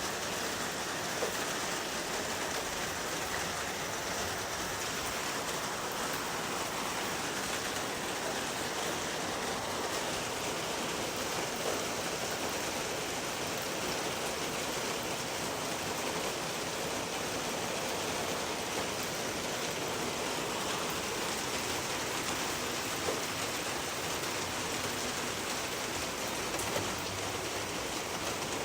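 Steady heavy rain, an even hiss with a few slightly louder drop impacts here and there.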